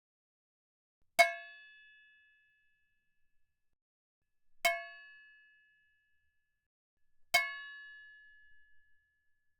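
A metal spatula struck three times, a few seconds apart. Each hit rings out with several clear tones that fade over about a second.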